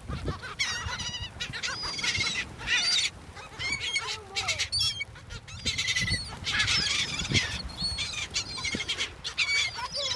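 A flock of birds calling over one another, many overlapping high-pitched calls one after another while they are being fed.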